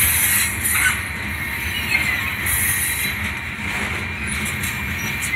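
Freight train's covered hopper cars rolling past, a steady rumble of wheels on rail with a thin high wheel squeal that comes and goes.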